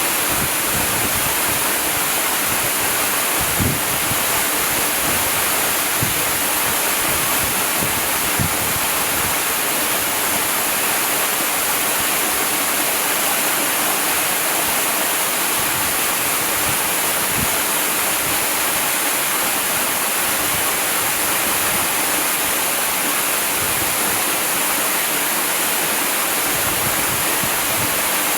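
Waterfall rushing steadily, an even hiss of falling water with a few soft low thuds in the first third.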